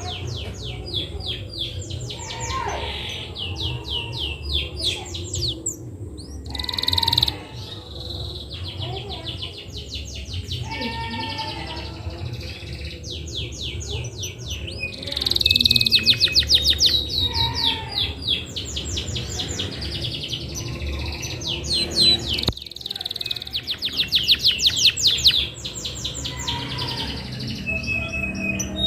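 Domestic canary singing in long runs of fast trilled notes broken by short pauses, loudest about halfway through and again near the end.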